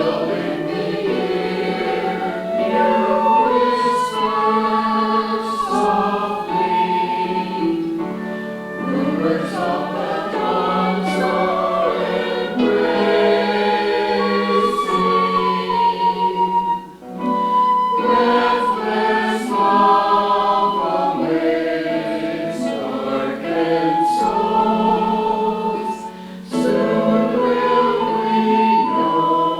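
A choir singing in sustained, held notes, with brief breaks between phrases about halfway through and again near the end.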